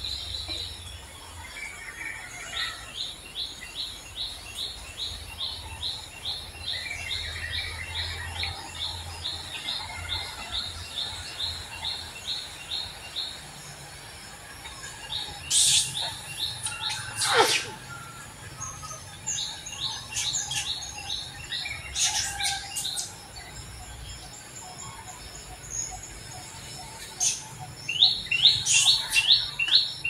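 Wild birds chirping: a rapid run of short high chirps, about three a second, then louder sweeping calls in the second half and a burst of chirps near the end.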